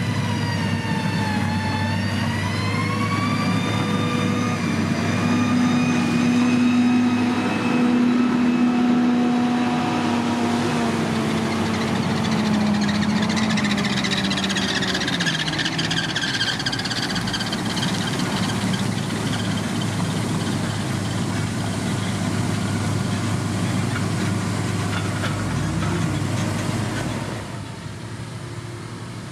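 Diesel engine of heavy road-building machinery running under load, its revs dipping and rising in the first few seconds and falling again a little after the middle. The engine gets noticeably quieter near the end.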